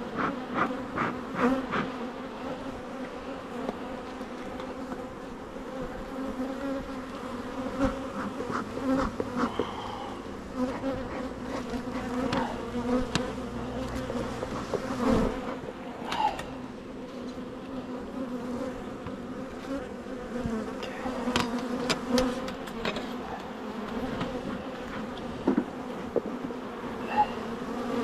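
A swarm of honeybees buzzing around an open hive, a steady low hum, with a few short knocks scattered through it, a quick run of them near the start.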